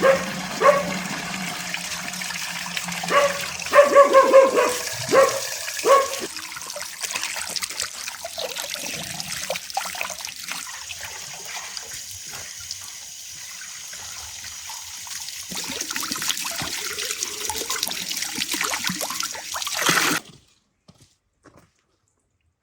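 Water running and splashing, with several short pitched cries in the first six seconds; it cuts off suddenly near the end.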